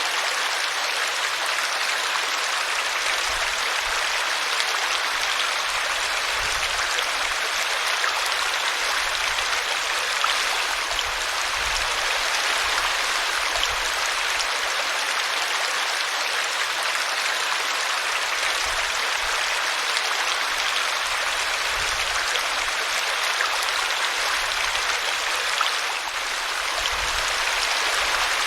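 A small brook running over a tree root: a steady, even rush of flowing water.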